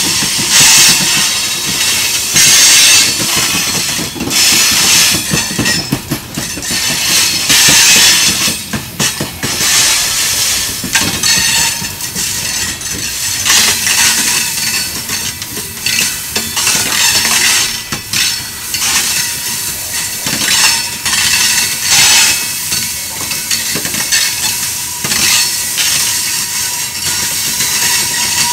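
Loaded rock hopper cars of a freight train rolling past, their steel wheels clacking over rail joints. A high-pitched metallic rushing noise from the wheels on the rails swells and fades every couple of seconds.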